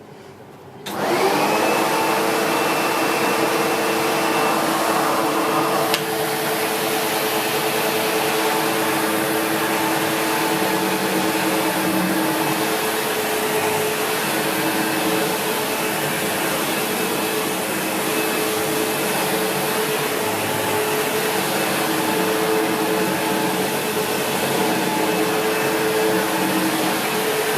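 SEBO X4 Extra upright vacuum cleaner switched on, its motor spinning up with a rising whine about a second in, then running steadily on carpet. About six seconds in there is a click, and the sound drops slightly in level and loses a high tone.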